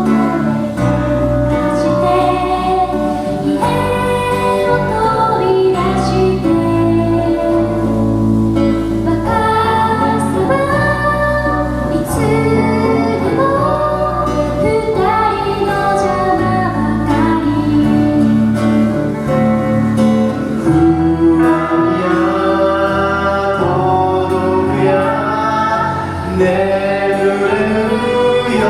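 A pop-rock band playing a song live, with a sung vocal over guitar and sustained bass notes.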